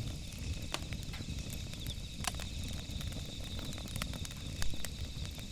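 Campfire crackling, with scattered sharp pops over a low rumble and a steady high-pitched trill.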